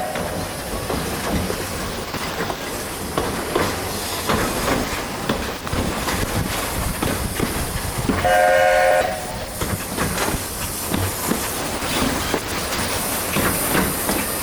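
Narrow-gauge steam train running, heard from aboard, with wheels clicking over the rail joints; about eight seconds in the locomotive's steam whistle blows one short blast of about a second, several notes sounding together. A hiss comes up near the end.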